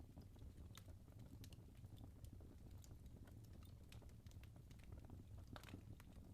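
Burning logs in a fireplace crackling faintly: scattered sharp pops and ticks at an uneven pace over a low, steady rumble.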